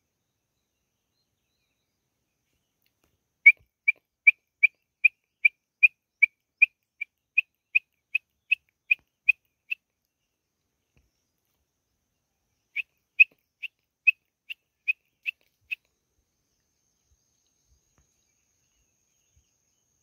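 A bird calling a long series of short, evenly spaced whistled notes, about two and a half a second. After a pause of a few seconds it gives a second, shorter series.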